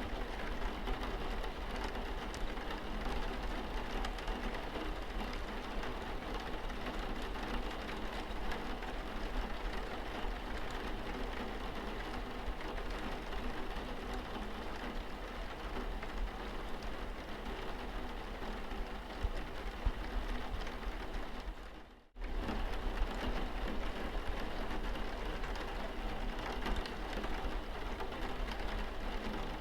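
Steady rain pattering on a car's windscreen, a dense crackle of drops. About three-quarters of the way in the sound briefly fades out, then comes back.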